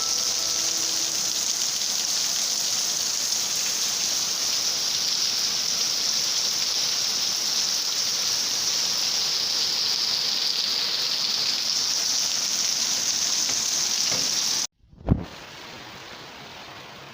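Heavy rain falling steadily, a dense even hiss. About 14.5 s in it cuts off abruptly, a single thump follows, and a much softer hiss carries on.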